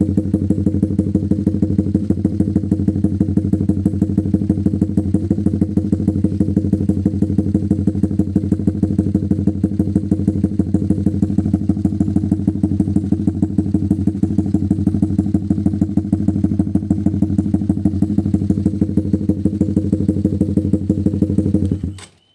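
Honda CB150R's single-cylinder engine running through an aftermarket Mafia slip-on silencer and Proliner header, idling with a steady, even exhaust pulse. The sound cuts off suddenly near the end.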